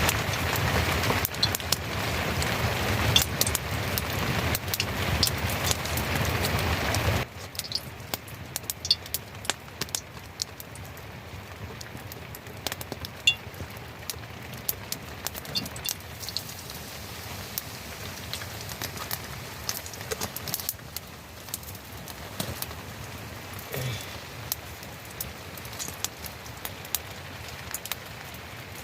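Rain falling: a loud, dense patter for about the first seven seconds, then a sudden drop to much lighter rain with scattered drips and ticks.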